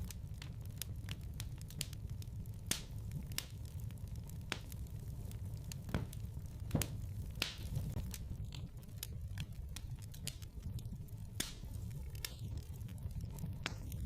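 Wood fire in a fireplace crackling, with irregular sharp pops and snaps over a steady low rumble of burning, a couple of pops louder than the rest.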